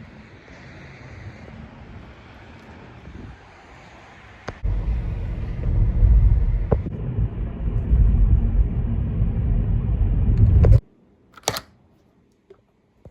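Car on the move: a low rumble of road and engine noise that grows much louder about four and a half seconds in, then cuts off abruptly, followed by a single sharp click.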